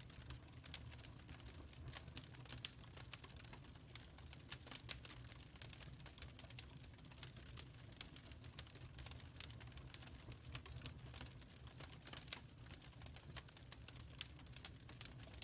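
Wood fire crackling in a firepit: irregular sharp pops and snaps, several a second, over a faint low rumble.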